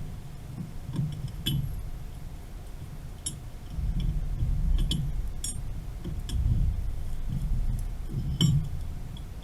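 Scattered light metallic clinks and taps of tools against pipe fittings during work on a valve, over a low rumble.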